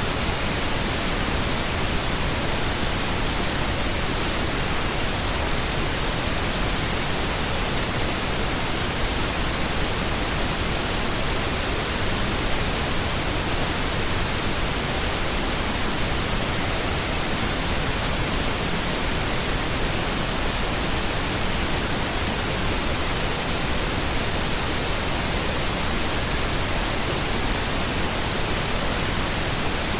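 Steady pink noise: an even, unchanging hiss across the whole range, with no events or changes.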